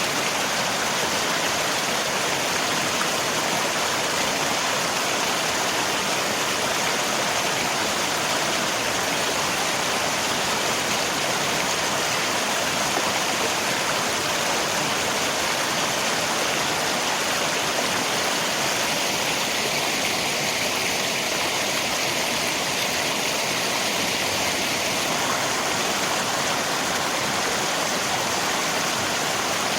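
River water rushing steadily together with rain, one even, unbroken wash of sound.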